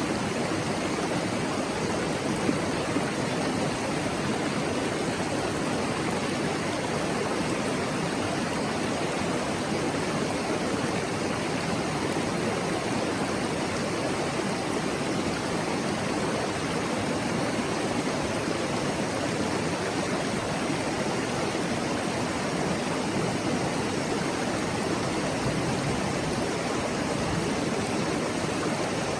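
Mountain stream babbling steadily, an even rushing murmur of flowing water.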